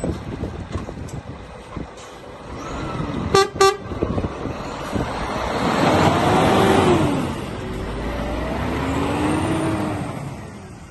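Two short toots of a vehicle horn about three and a half seconds in, over wind noise and traffic. Near the middle a vehicle passes, its engine note rising and then falling.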